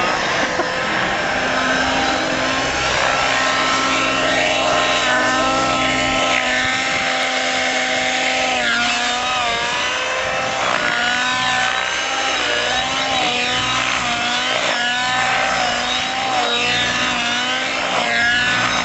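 Radio-controlled nitro helicopter (Avant EFX with a YS 91SR two-stroke glow engine) flying, its engine and rotor note whining steadily at first. From about eight seconds in, the pitch wavers up and down again and again as the helicopter is put through manoeuvres.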